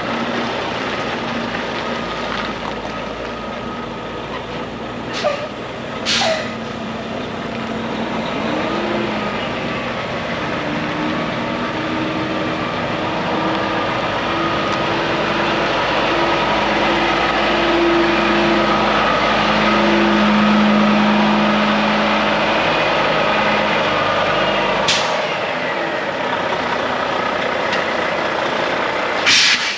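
Volvo D13 12.8-litre diesel in a heavy truck tractor running, its note shifting in pitch as the engine speed changes. Sharp air hisses from the truck's air system come four times.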